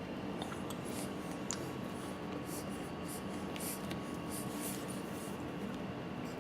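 Faint, scattered light scraping and rustling over a steady low room hum.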